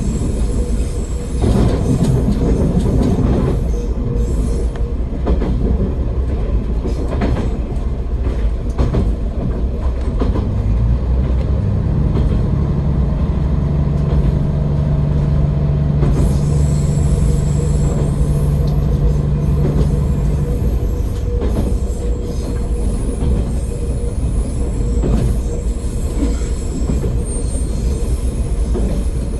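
An AN-8800 diesel railcar running along the line, with a steady rumble and wheels clicking over rail joints. About ten seconds in, the engine note steps up in pitch. It holds there and drops away about twenty seconds in, as the power comes off.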